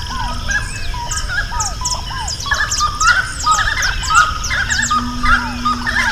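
Many wild birds singing and calling at once: a dense chorus of overlapping chirps, whistles and short down-slurred notes, over a steady low background noise.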